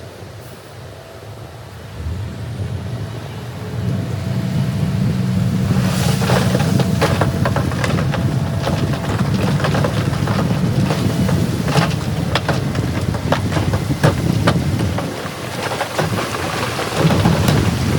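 A heavy earthmoving machine's diesel engine rumbles, growing louder about two and four seconds in. From about six seconds on, repeated sharp clattering knocks sound over it.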